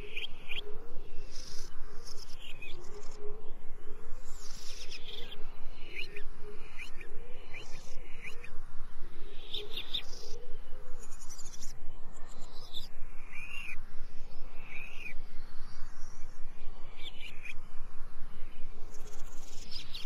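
Birds calling, many short chirps overlapping, with lower cooing-like calls underneath.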